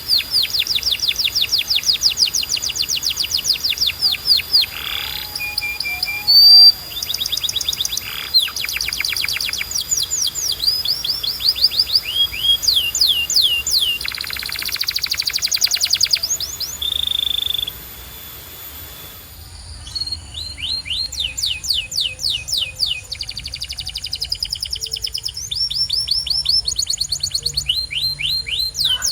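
Domestic canary singing: long rolling trills of rapidly repeated high notes, each a quick downward sweep. The song switches from one trill to another every second or two, with a short pause about two-thirds of the way through.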